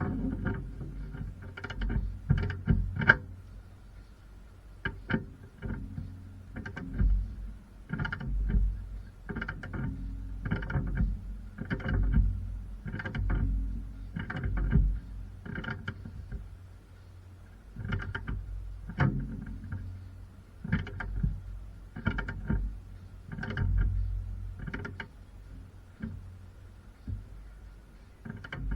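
Hand tools working on metal car suspension parts: irregular sharp knocks and clicks, about one or two a second, with low thuds and a faint steady high tone under them.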